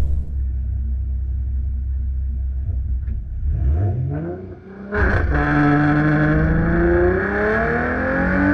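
2011 Ford Mustang's 3.7-litre V6 idling, then revving briefly about three seconds in. About five seconds in it launches at full throttle, its engine note climbing steadily as the car accelerates hard.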